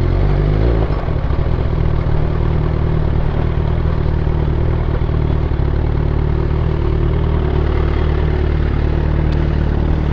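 Suzuki GSX-R1000 K8 motorcycle's inline-four engine running at steady low revs, with no revving.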